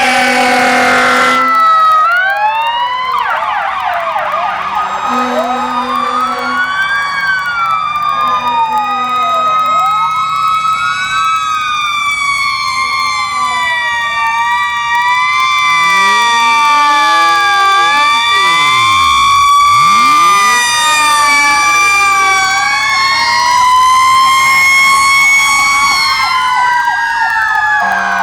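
Several fire truck sirens wailing and yelping at once, their rising and falling pitches overlapping, with short blasts of a low horn near the start and about five seconds in. Around twenty seconds in one apparatus passes close by.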